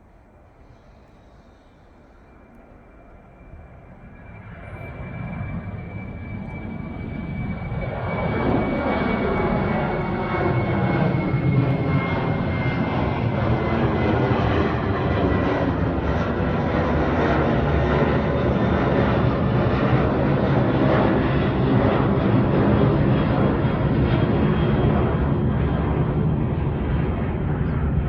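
Airplane flying low overhead. Its engine noise swells from faint to loud over the first eight seconds or so and then stays loud, with a thin high whine that slowly drops in pitch.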